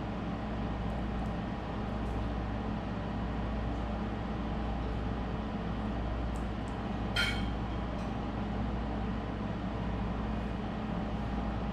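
Steady low machine hum, with one short sharp sound about seven seconds in.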